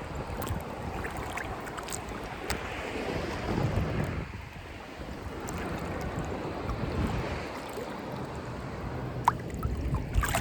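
Ocean surf washing and surging in waves, with wind buffeting the microphone and a few sharp clicks near the end.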